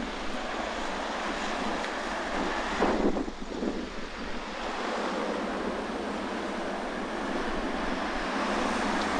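Sea waves washing on the shore under strong wind, a steady rush with a louder surge about three seconds in.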